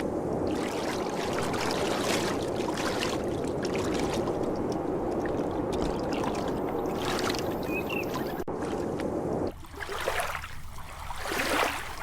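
Steady rushing, splashing water noise, thinning out to a hissier wash for the last couple of seconds.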